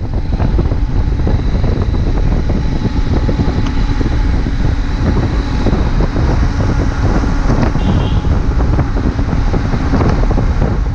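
Motorcycle riding at speed: heavy wind rushing over the microphone mixed with the steady run of the bike's engine.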